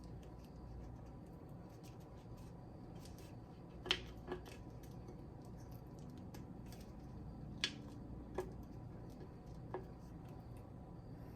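Fingers picking at the wrapping on a bottle: scattered sharp clicks and light crackling, louder snaps about four and eight seconds in, over a low steady hum.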